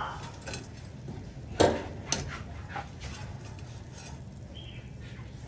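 Kitchen clatter: a few clinks and knocks of utensils, the loudest a sharp knock about a second and a half in, over a low steady hum.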